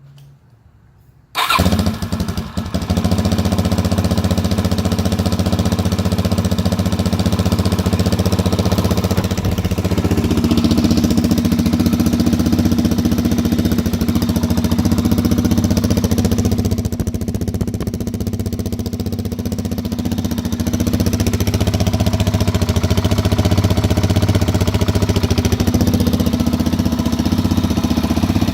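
2006 Suzuki DR-Z400's single-cylinder four-stroke engine starting from cold. It catches suddenly about a second and a half in, stumbles briefly, then idles steadily.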